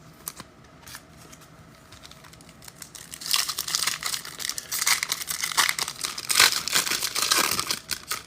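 Trading-card pack wrapper crinkling and tearing as it is ripped open, starting about three seconds in and going on for about five seconds, after a few faint clicks.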